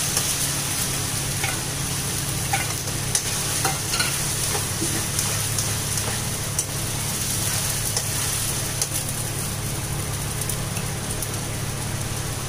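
Masala paste of onion, ginger, garlic and green chilli sizzling in hot oil in an aluminium kadhai. For the first few seconds it is stirred with a spatula that scrapes and clicks against the pan, then it settles into a steady sizzle.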